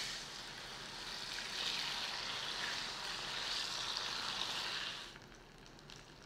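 Taro pieces sizzling in hot oil as they are added to a frying pan. The sizzle swells about a second and a half in, then drops sharply about five seconds in to a faint low sizzle.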